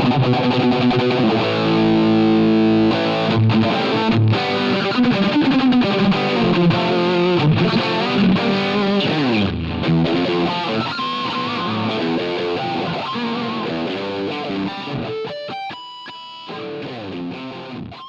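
Electric guitar played through an overdrive pedal: chords and lead lines with a pitch bend about halfway through. The playing thins out and gets quieter over the last few seconds.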